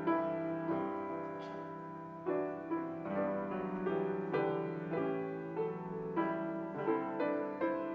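Piano playing a slow, gentle piece, melody notes over held low notes and chords.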